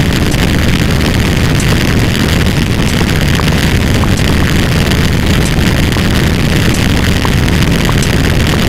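A loud, steady wall of many overlapping sound effects, mostly a heavy low rumble with faint scattered clicks on top.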